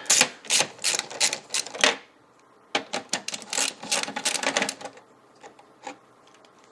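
Small hard parts clicking and rattling as they are handled during M.2 drive installation on a computer motherboard: a fast run of clicks, a short pause, a second run, then only a few scattered ticks.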